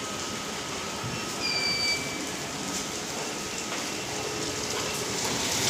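Heavy rain pouring down as a steady hiss, growing louder near the end, with a brief faint high whistle about a second and a half in.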